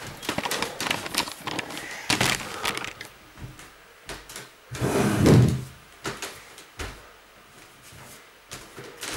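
Handling noises in a small room: a run of clicks and knocks, with one louder, longer scraping thud about five seconds in.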